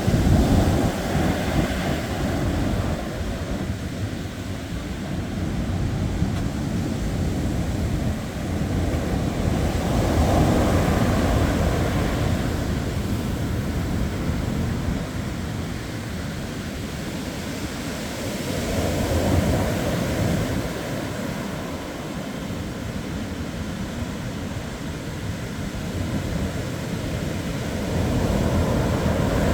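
Ocean waves breaking and washing on a shore, swelling and fading about every nine seconds, with wind buffeting the microphone.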